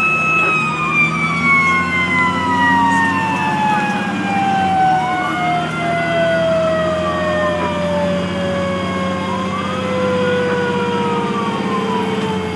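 Fire engine sirens while responding. One siren holds a steady high pitch and then slowly slides down after about half a second, while a second wails up and down about every four seconds. The truck's engine hums underneath.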